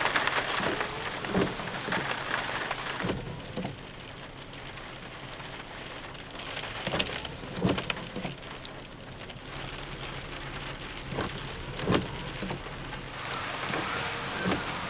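Heavy rain falling steadily, with a few sharper drop hits standing out here and there. The rain eases slightly about three seconds in and picks up again near the end.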